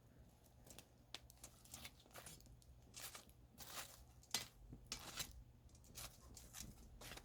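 Wood campfire burning with faint, irregular crackles and snaps, a few sharper pops among them.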